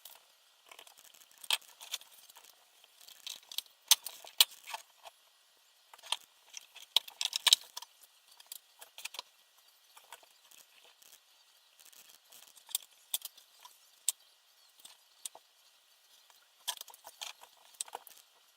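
Irregular light clicks and taps of small hard parts being handled, busiest between about four and eight seconds in, with a few more near the end.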